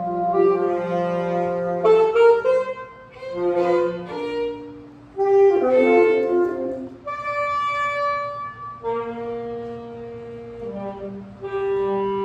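Free-jazz saxophones (tenor and alto) improvising together: several long held notes overlap, broken by quick busy flurries of shifting notes about two and six seconds in, then settle into long sustained tones.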